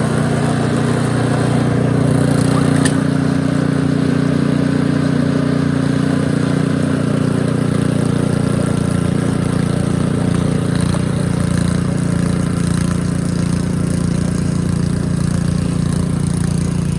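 Gasoline snow blower's small engine running steadily at a loud, even drone.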